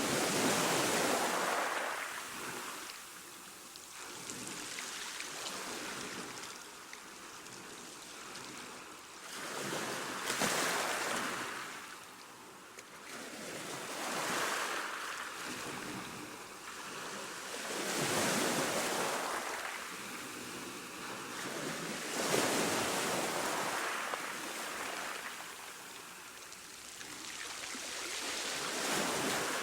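Ocean waves breaking on a shore: surf rushing in and washing back, swelling and fading about every four seconds.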